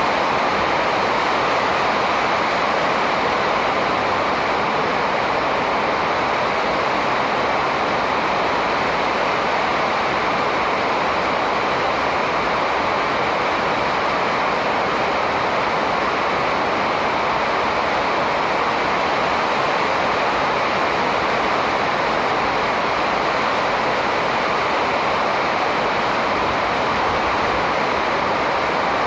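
Steady, even rushing noise that does not change, with no birdcalls standing out.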